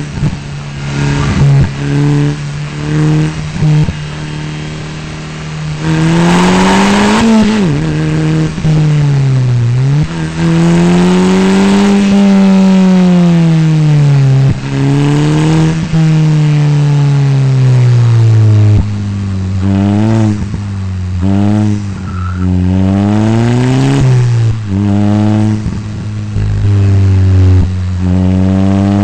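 Open-cockpit sports car engine pulling hard and easing off again and again, its pitch climbing and falling with each burst of throttle and each gear change. About six seconds in there is a short rush of tyre or wind noise.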